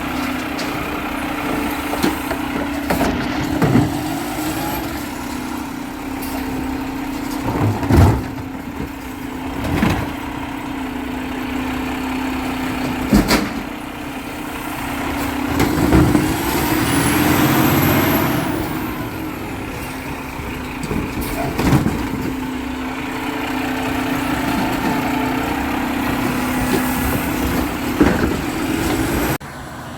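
Garbage truck running with a steady hum, broken by about half a dozen sharp clanks and bangs. About halfway through, a longer swell of noise rises and falls.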